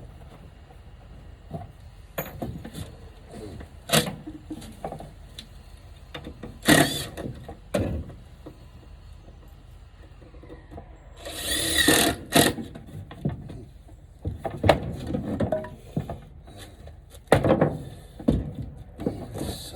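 Power drill running in short bursts, the longest about a second long near the middle, between scattered knocks and clatter of wood being handled.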